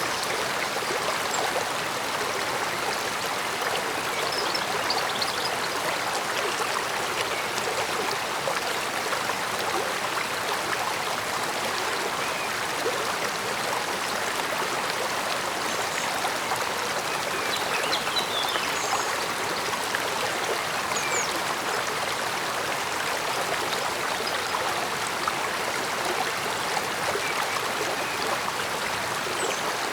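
Mountain stream flowing, a steady soft murmur of running water.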